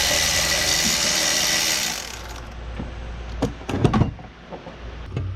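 A power tool runs for about two seconds and then stops, followed by a few sharp clicks and knocks of tools on the engine.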